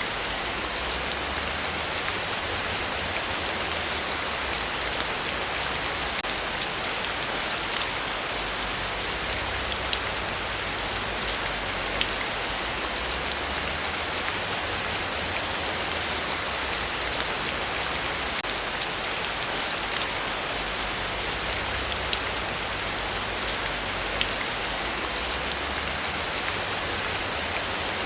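Steady heavy rainfall, a dense even hiss with many small drop ticks, over a continuous low rumble.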